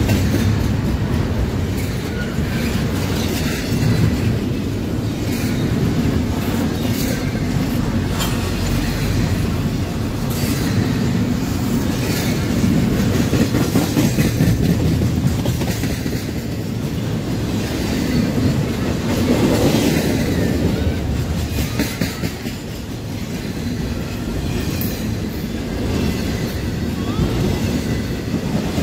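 CSX intermodal freight train rolling by, its double-stack well cars and trailers making a steady rumble of steel wheels on rail, broken by irregular clicks and clacks as the wheels cross rail joints.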